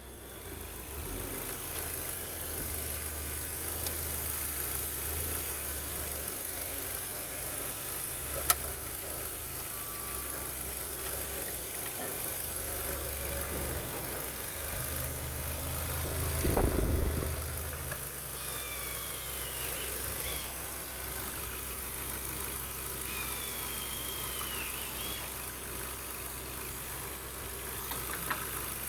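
Ford Focus 2 1.6-litre four-cylinder petrol engine (HWDA) idling steadily on an engine test, with a brief rise in level about two-thirds of the way through and a single sharp click about a third of the way in.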